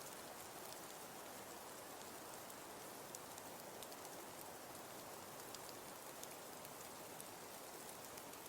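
Faint, steady rain-like background ambience: an even hiss with light, scattered ticks.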